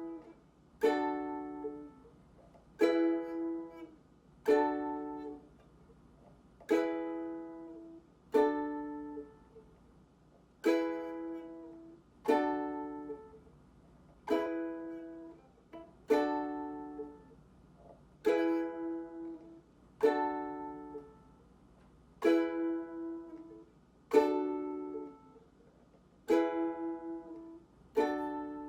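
Ukulele strummed slowly, one chord about every two seconds, each left to ring and fade, switching back and forth between an E chord and a D chord as transition practice.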